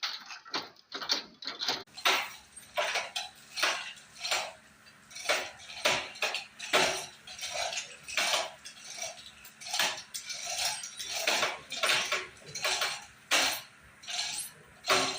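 Irregular metallic clinks and knocks, roughly one or two a second, like metal parts or tools striking one another.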